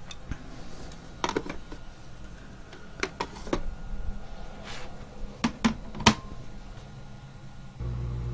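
Scattered light knocks and clicks of objects being handled, about seven in all, over a faint low hum; a louder, steady low hum comes in near the end.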